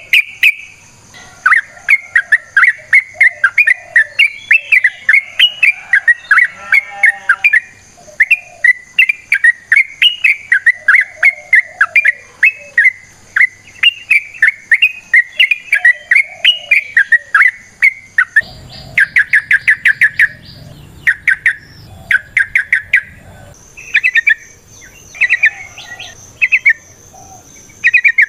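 Yellow-vented bulbul (trucukan) singing a long run of rapid chattering notes, several a second. About 18 s in, the background changes abruptly and the song continues in shorter bursts with gaps between them.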